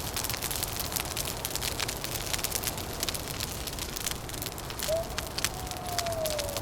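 Wood fire crackling, with dense sharp pops over a steady hiss. About five seconds in, a thin wailing tone comes in and slides slowly downward, like wind howling through cracks.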